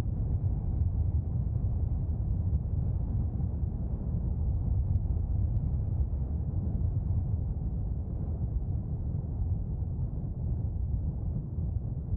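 Airbus A330-300 jet airliner's engines heard as a low, steady rumble from a distance, with no high whine on top.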